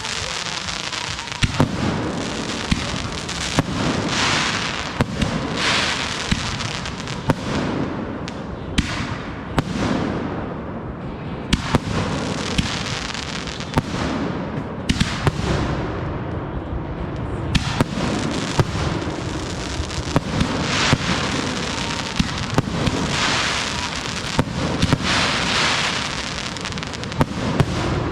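Consumer aerial fireworks going off continuously: a dense run of shells bursting and crackling, with many sharp reports throughout.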